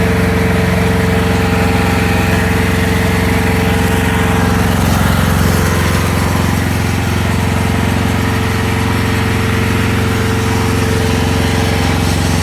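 AGT QH12R mini excavator's gasoline engine running steadily after a hydraulic oil change.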